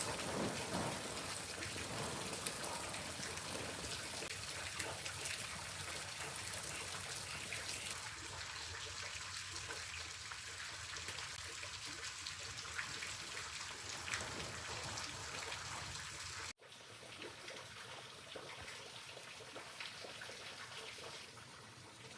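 Falling water: a steady patter with scattered drips. It drops abruptly to a quieter patter about two-thirds of the way through.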